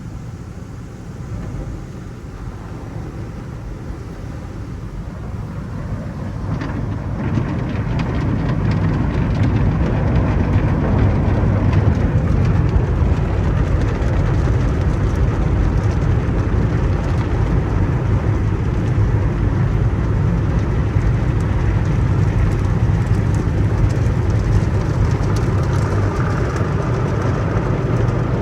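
Car wash tunnel equipment running with a steady rushing noise that swells about seven seconds in and then stays loud.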